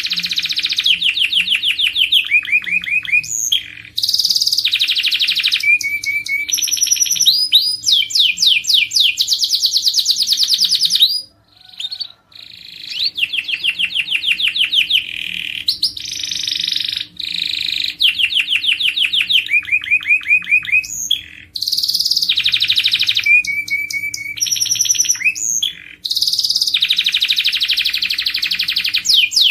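Domestic canary singing a long song of fast trills and runs of repeated chirps, with a short break about eleven seconds in.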